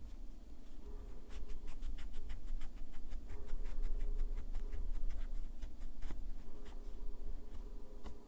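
Rapid, crisp scratchy strokes of a nail file against fingernails, several a second, starting about a second in and running in short back-and-forth runs.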